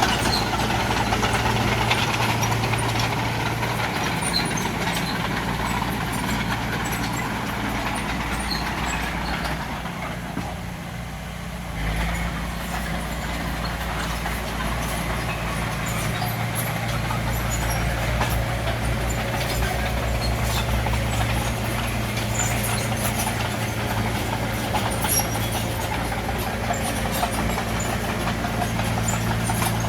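Bulldozer's diesel engine running steadily under work, easing off briefly about ten seconds in and picking back up about two seconds later.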